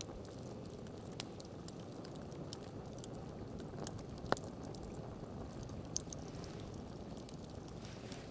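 Wood campfire crackling: scattered sharp pops over a steady low rushing, with one louder crack about four seconds in.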